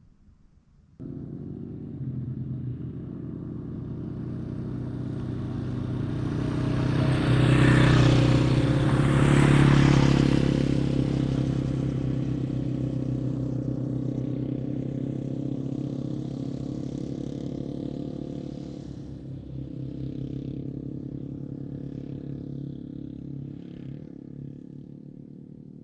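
Single-cylinder Yamaha dual-sport motorcycle engine running steadily. It starts suddenly about a second in, grows louder to a peak in the middle, then slowly fades.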